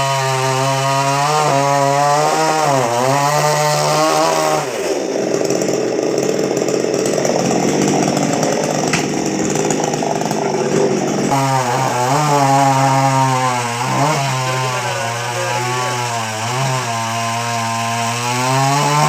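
Two-stroke chainsaw running at high revs, its pitch dipping briefly now and then. A few seconds in, the engine note drops and turns rough for about six seconds, then climbs back to full revs.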